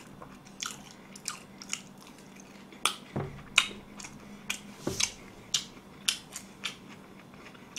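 Close-up mouth sounds of a person chewing a mouthful of sauce-coated fried chicken: irregular smacking clicks, two or three a second. There are two soft low thuds about three and five seconds in.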